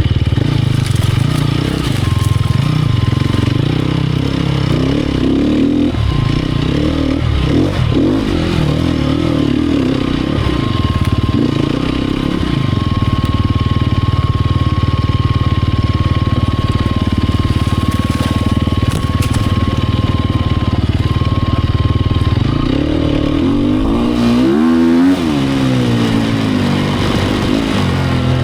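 Sherco 250 SEF Factory's single-cylinder four-stroke enduro engine running under constantly changing throttle as the bike is ridden. A thin steady whine sits above the engine through the middle. Near the end the revs rise and fall sharply.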